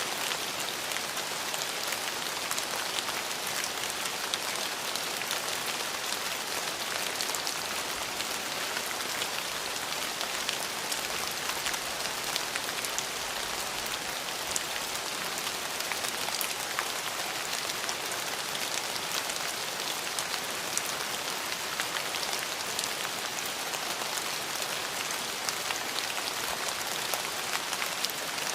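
Steady rain falling, a constant hiss dotted with fine drop ticks and no thunder.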